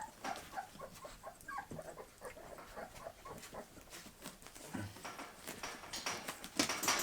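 Three-week-old bull terrier puppies whimpering and squeaking in short little cries, with small clicking noises throughout and a brief louder noise near the end.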